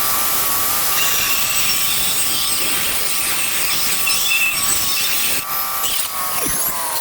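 A handheld power tool with a spinning cutting blade grinds into a ceramic patio tile, a harsh gritty noise over a steady high motor whine, as the tile is trimmed and shaved to fit.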